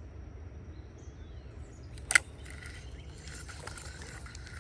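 Hooked big carp thrashing at the surface close to the bank: one sharp, loud splash about two seconds in, then a couple of seconds of rough splashing.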